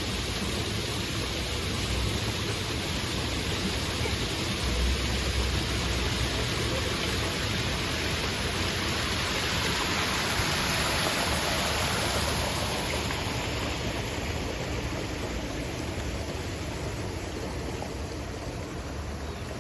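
Flowing water making a steady rushing noise, easing off slightly in the second half.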